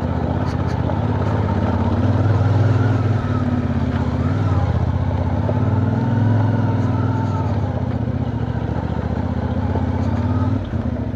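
450 NK motorcycle engine running at low road speed, with small throttle rises and falls, then easing off near the end.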